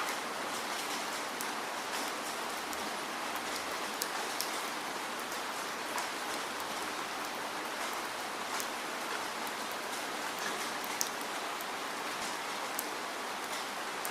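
Steady rainfall, a continuous hiss of rain with many individual drops ticking sharply on a surface throughout.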